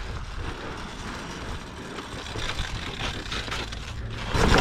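Pit bike engine running at low revs, with a steady low rumble that gets clearly louder near the end.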